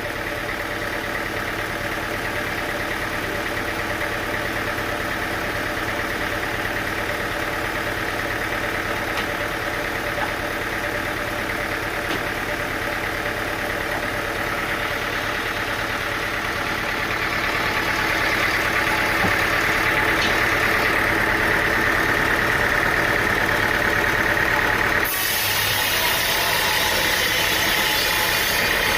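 An engine running steadily with an even hum, growing louder about two-thirds of the way through. Near the end the sound changes abruptly and a brighter hiss joins it.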